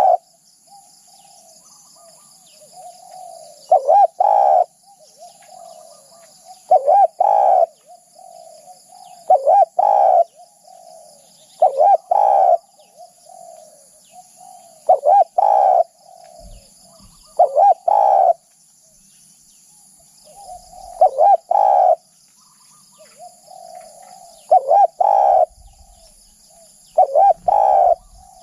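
Spotted dove cooing, with about nine loud phrases roughly every three seconds, each built on a strong two-note coo, and softer cooing in between.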